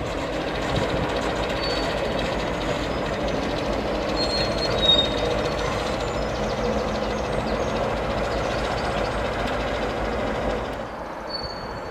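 Train running past along the track: a steady rumble of engine and wheels that eases off near the end.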